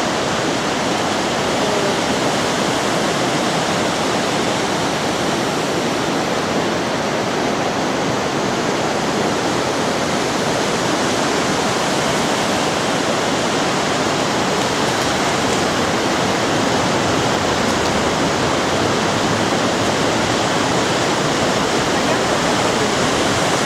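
Waterfall pouring steadily close by: a loud, even rush of falling water that holds unchanged throughout.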